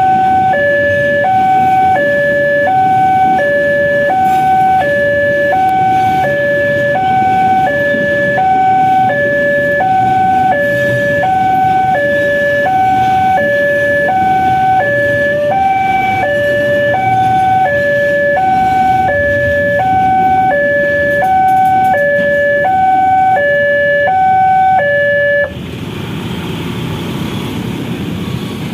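Railway level-crossing warning alarm sounding an electronic two-tone high-low signal, about one high-low cycle a second, warning that a train is coming or passing; it cuts off suddenly about 25 seconds in. Road traffic rumble runs underneath and carries on after the alarm stops.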